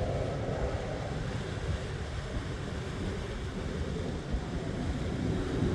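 Wind buffeting the microphone in a low, fluttering rumble over the steady wash of ocean surf.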